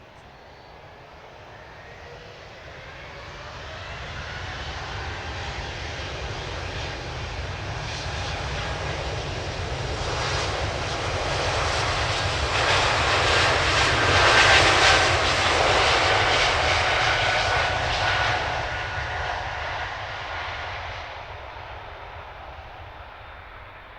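Airliner passing close by: its engine noise swells steadily to a peak a little past the middle and then fades away, with a faint whine that slides slowly down in pitch as it goes by.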